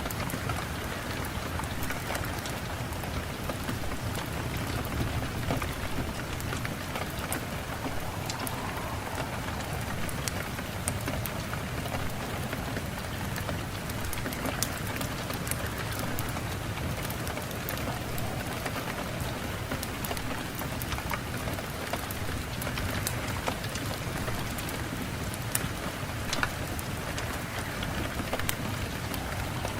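Steady rain falling, with many distinct drops ticking on a surface over a constant hiss.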